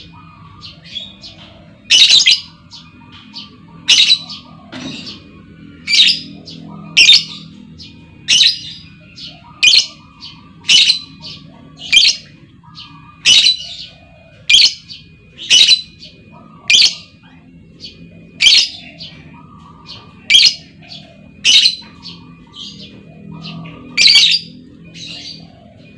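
Female lovebird calling: loud, shrill squawking calls about once a second, with softer chirps between them, over a low steady hum.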